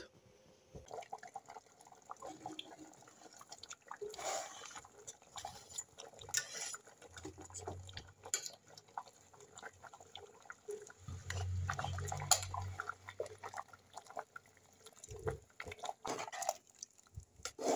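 Quiet, scattered kitchen handling sounds while cooking: light clicks and knocks of a pot and utensils, with two short low hums in the middle.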